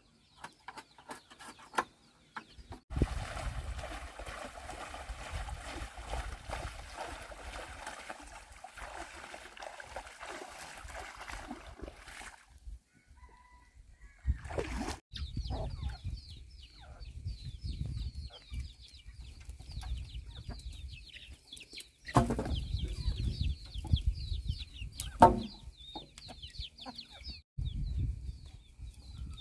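Chickens clucking, with short high chirps through the second half. A steady hiss fills the first half, and there are scattered knocks and low rumbling bumps.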